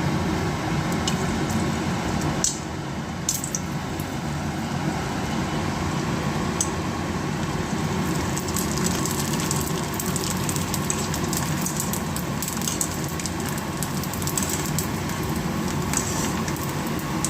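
Dried panipuri papad frying in hot oil: a steady sizzle full of fine crackles and sharp pops as the puris puff up.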